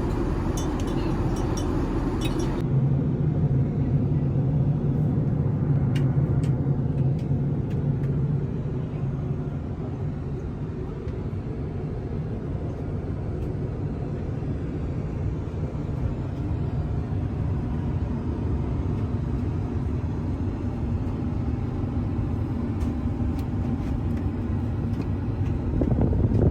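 Steady low rumble of a jet airliner heard from inside the cabin. The tone changes abruptly about three seconds in, with a few faint clicks a few seconds later.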